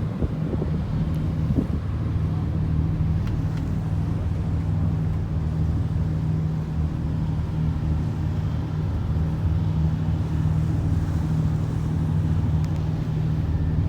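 Steady low drone of a passenger ferry's engine, with wind on the microphone.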